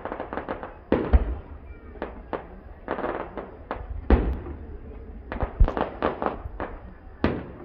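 Fireworks display: a rapid, irregular string of bangs and crackles, with louder booms about a second in, around the middle and near the end.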